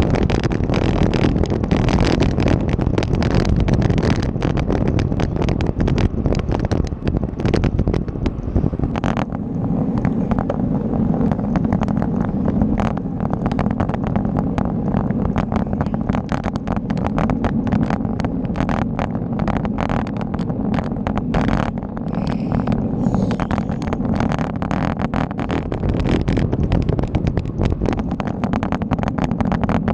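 Wind rushing over the microphone while riding, with steady road rumble and frequent rattles and knocks from the bike going over the surface.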